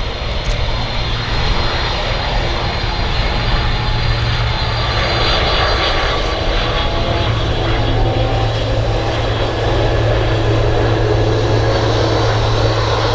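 Twin jet engines of a DHL Boeing 767 freighter on arrival, a loud, steady rumble with a low hum.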